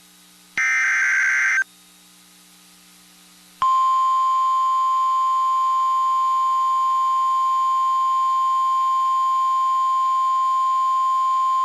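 NOAA Weather Radio alert signalling a warning: about half a second in, a one-second burst of warbling data noise (the digital SAME header). About three and a half seconds in, a single steady, loud 1050 Hz warning alarm tone begins and holds.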